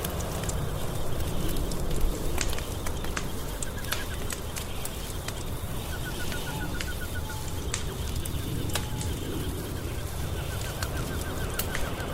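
Wood fire burning in a fireplace, crackling with many sharp pops over a steady low rumble. A bird calls in the background, short runs of fast repeated notes heard three times.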